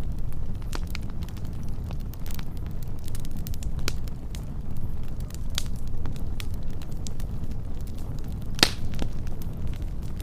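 Wood fire burning with a steady low rumble and scattered sharp crackles and pops, one louder pop near the end.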